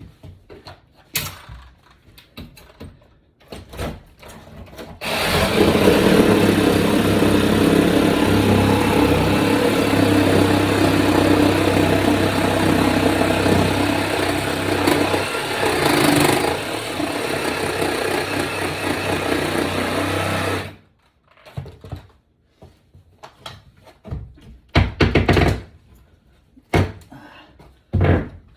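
A motor-driven power tool running steadily for about fifteen seconds, starting and stopping abruptly, set between scattered knocks and thumps from floor demolition work.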